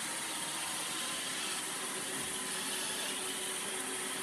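iRobot Roomba 650 robot vacuum running: a steady whirring hiss from its vacuum motor and brushes, with a faint constant hum underneath.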